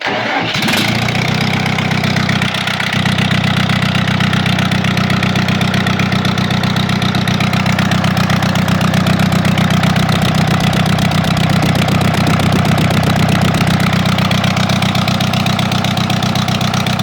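AGCO Allis 5680 tractor's diesel engine idling loudly and steadily with cylinder 1 misfiring at idle; the owner suspects a bad head gasket or bad rings.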